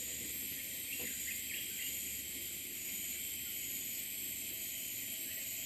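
Steady high-pitched chorus of forest insects, cicadas or crickets, droning without a break, with a few short chirps about one to two seconds in.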